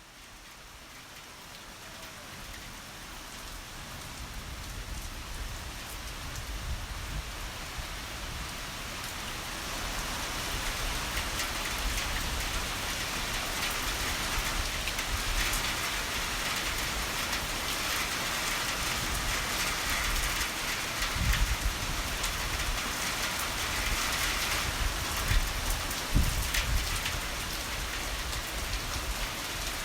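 Heavy rainfall: a dense, steady hiss of rain that fades in over the first ten seconds, then holds. A few brief low thumps come in the second half.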